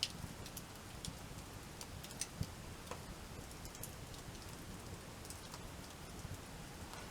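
Wood campfire crackling, with scattered irregular sharp pops.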